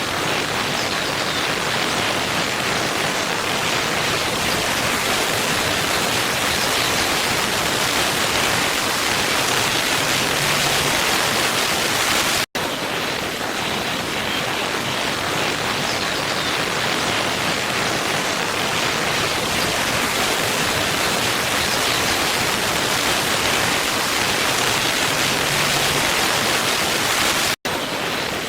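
Waterfall: a steady rushing of falling water. The sound cuts out for an instant twice, about fifteen seconds apart, at the seams of a looped recording.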